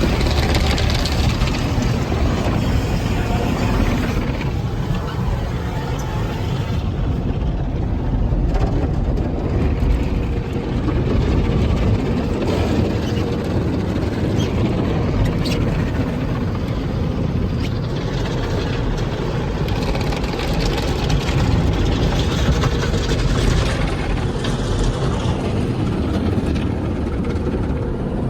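Automatic tunnel car wash heard from inside the car: water spray and wash equipment working over the body, a steady loud rush with a low rumble.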